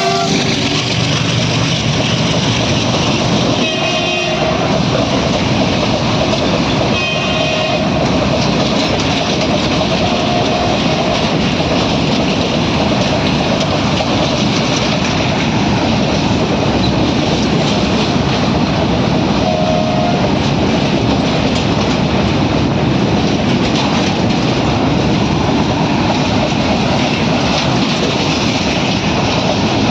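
Train running with steady wheel-and-rail noise and clickety-clack, its horn sounding in short blasts several times, around four, seven, ten and twenty seconds in.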